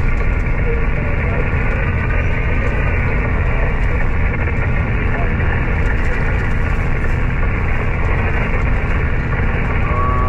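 Amateur radio receiver hissing with steady static and band noise, cut off above the voice band. A weak, garbled single-sideband voice is faintly buried in the noise.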